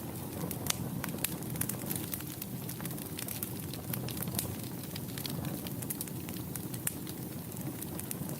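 Wood fire in a fireplace crackling: a steady low rumble of burning with frequent sharp, irregular pops and snaps.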